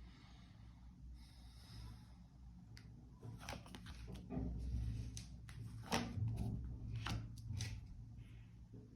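Tarot cards being handled and laid out on a table: a soft rustle, then from about three seconds in a run of light, irregular clicks and taps, over a low hum.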